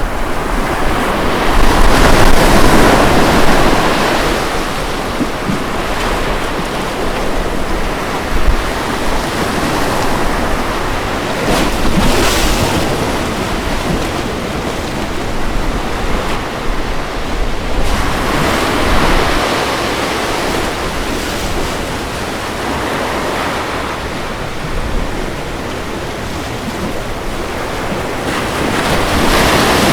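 Ocean waves breaking and washing on a beach, a continuous rush of surf that swells louder every several seconds as sets come in, with some wind on the microphone.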